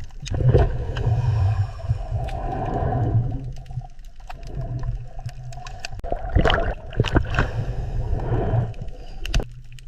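Orca (killer whale) vocalizations: whale calls over a steady low drone, with a few sharp clicks in the second half.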